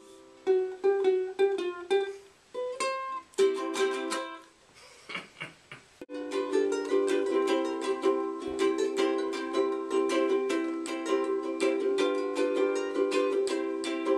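Soprano ukulele played: single plucked notes for the first few seconds, a short quieter pause, then fast, steady chord strumming from about six seconds in.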